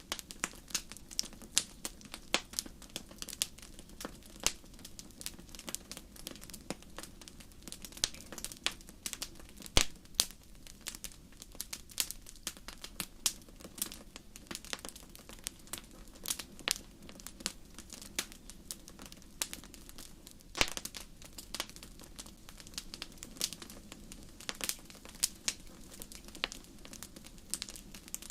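Campfire crackling: irregular sharp pops and snaps of burning wood, a few louder ones about ten seconds and twenty seconds in, over a steady low rumble of the flames.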